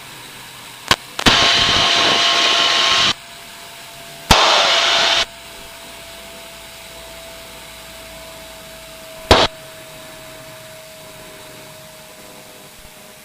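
Steady jet engine whine heard inside the cockpit of an L-29 jet, broken by sharp clicks and two abrupt bursts of radio hiss, a longer one about a second in and a shorter one about four seconds in, with another click about nine seconds in.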